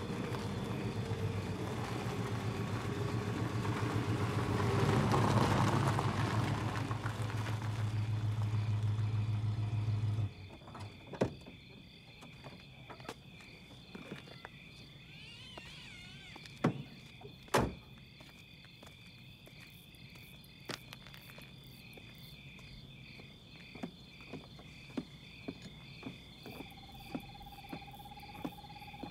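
A car engine runs with a steady low hum and cuts off suddenly about ten seconds in. Crickets then chirp steadily, with a few sharp knocks and footsteps on steps.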